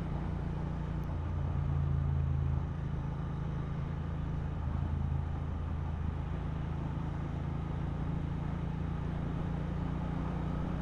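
Royal Enfield Interceptor 650's parallel-twin engine running steadily under way. The engine note swells briefly and drops back about two and a half seconds in.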